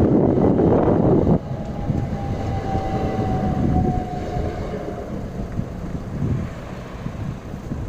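Southeastern Class 375 electric train passing close over a level crossing: the loud rush of its wheels and bodies cuts off abruptly about a second and a half in as the last carriage clears, then a whine that falls slightly in pitch fades as the train moves away.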